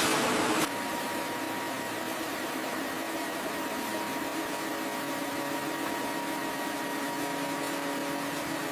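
Steady machinery hum with a few faint whining tones. A louder rush of noise cuts off abruptly just under a second in.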